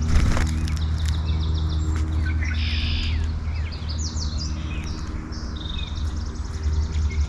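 Several small songbirds chirping and singing, including fast high trills, over a steady low hum. There is one brief knock just after the start.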